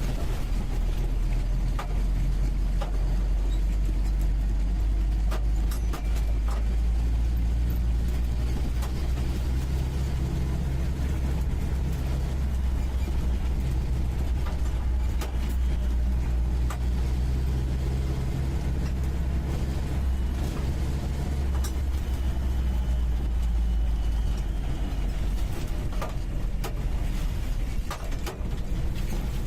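UAZ 469B's four-cylinder petrol engine running steadily under way, heard from inside the cab, with scattered knocks and rattles. The engine eases off near the end.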